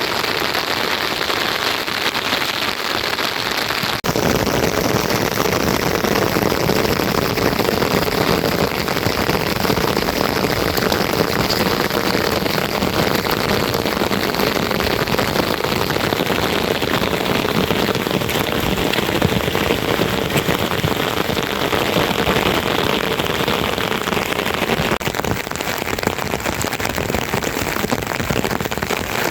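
Rain falling steadily, a dense crackling hiss that grows fuller about four seconds in.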